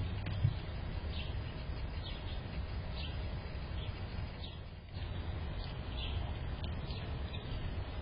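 Short, high bird chirps repeated every second or so, over a steady low rumble.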